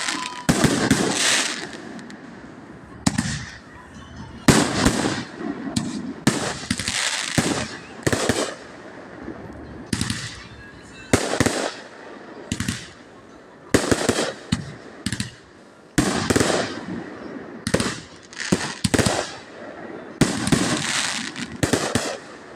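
Fireworks display: a steady run of shell bursts, roughly one bang a second, many trailing off into a longer crackle.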